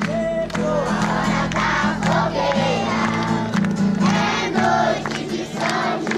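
A group of people singing together over music, with steady low held notes and a regular beat of sharp strikes.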